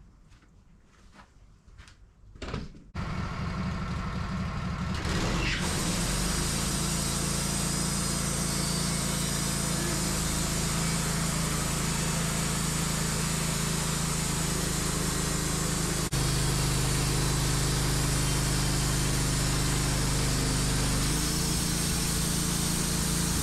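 Wood-Mizer LT15 bandsaw mill starting up after a few faint clicks about 3 s in, coming up to speed and running steadily, sawing a board off a black cherry log. The sound gets a little louder about 16 seconds in.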